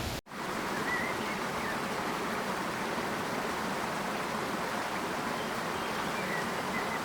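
Rushing water of a mountain stream in a gorge, a steady rush that starts right after a brief cut to silence about a quarter second in.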